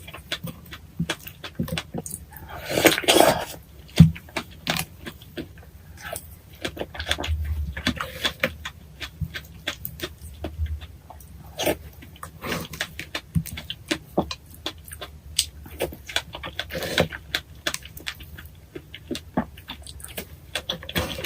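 Close-miked eating sounds of someone eating fresh strawberries with Nutella and whipped cream: wet chewing with many short clicks and smacks. A louder burst comes about three seconds in, and a single knock follows a second later.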